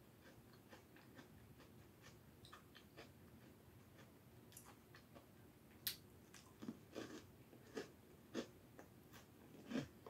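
Faint chewing and crunching of a crisp cocoa cashew crème sandwich cookie, with a sharp bite-crack about six seconds in.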